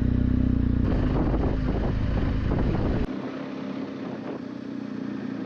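BMW R1250GS boxer-twin motorcycle engine running steadily under way, with wind noise. About three seconds in the sound cuts off abruptly to a quieter steady hum.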